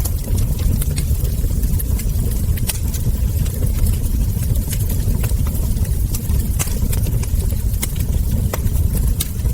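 Wood fire crackling: irregular sharp pops and snaps from burning logs and embers, several a second, over a steady low rumble.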